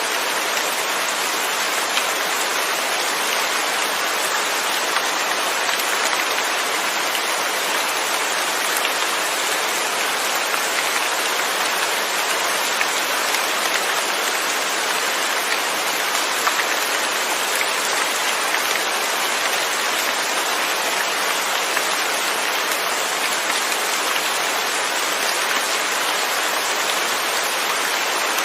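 Steady rain falling, without thunder: an even hiss of drops on a surface.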